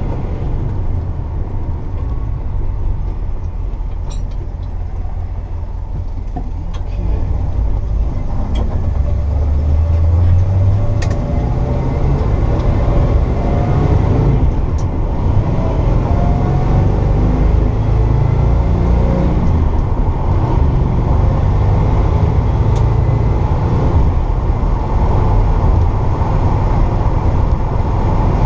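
1964 Pontiac GTO's 389 V8 with Tripower carburettors running on the road, freshly restored and being broken in gently. It gets louder about eight seconds in and then holds steady.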